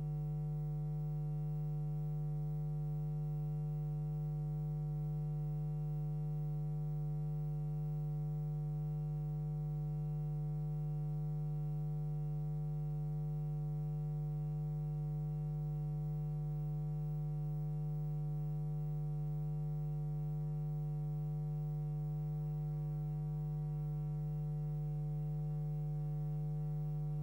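Steady electrical mains hum with a buzzing edge, one low pitch with many overtones, unchanging throughout with no other sound over it.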